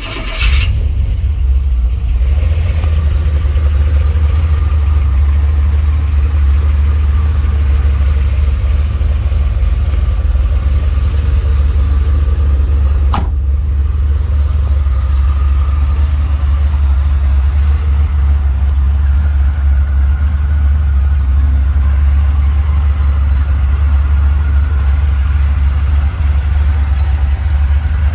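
Turbocharged LS V8 in a Ford F100 catching on a cold start about half a second in, then settling into a steady, deep idle. A single sharp click sounds about halfway through.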